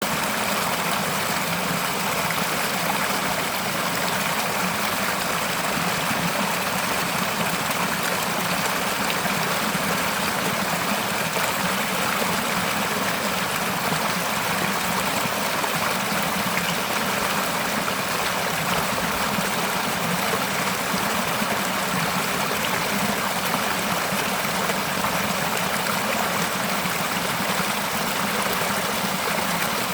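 Mountain stream flowing steadily over rocks, an even rushing and splashing of water with no change throughout.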